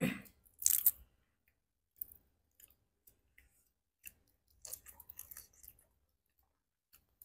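People chewing shrimp close to the microphone: short bursts of wet smacking and crunching near the start and again about five seconds in, with quiet between.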